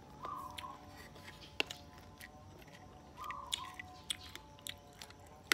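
Close-up mouth sounds of someone eating rice and fish: irregular wet clicks and smacks of chewing. A faint tune repeats about every three seconds underneath.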